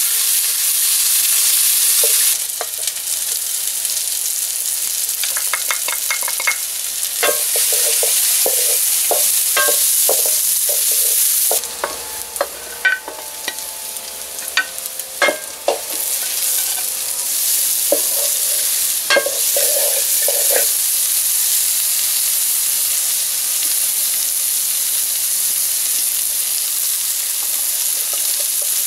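Sliced onions sizzling in oil in a wok, stirred and scraped with a wooden spatula. About halfway through, the sizzle drops and there is a run of knocks and scrapes as shredded carrot is tipped in from a clay dish. The frying then builds back up to a steady sizzle.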